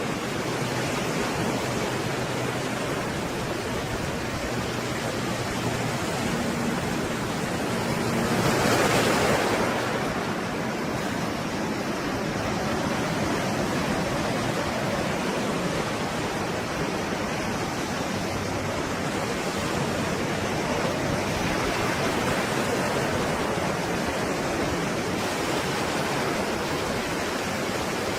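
Stormy sea waves breaking continuously, a steady wash of surf, with one louder wave crash about nine seconds in.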